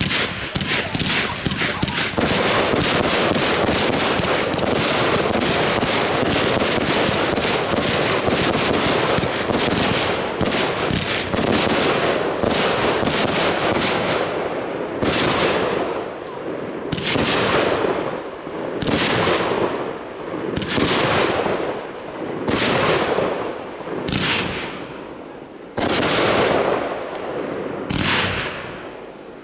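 Consumer fireworks going off: about fourteen seconds of rapid, dense cracking from a battery, then single loud bursts roughly every two seconds, each dying away quickly.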